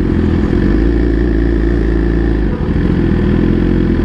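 Motorcycle engine running steadily at low speed, with a brief dip about two and a half seconds in.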